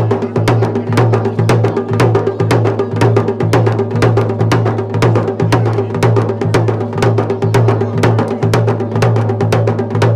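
Drumming: sharp strokes at a fast, even beat of about five a second over a steady low, pulsing drum tone.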